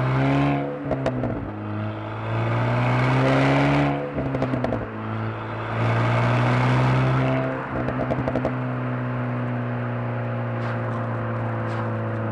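Alpine A110's turbocharged four-cylinder engine accelerating hard. Its pitch climbs and drops at each of three upshifts, and the exhaust crackles at each shift. After the last shift it settles into a steady cruising drone.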